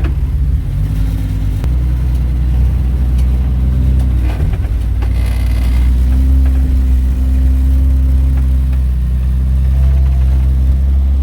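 Jeep engine running at low revs while crawling over rocks, a steady low drone that steps up a little about a second and a half in. A few knocks and a short burst of noise come around four to five seconds in.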